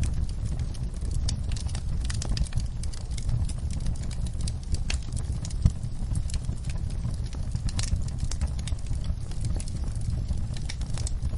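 Wood fire in a fireplace crackling, with many small irregular pops over a steady low rumble of flames, and one louder pop about halfway through.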